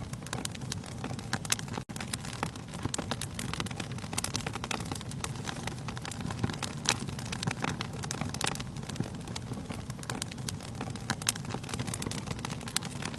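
Wood fire burning in a fireplace, logs crackling and popping in dense, irregular snaps over a steady low rumble. The sound cuts out for an instant about two seconds in.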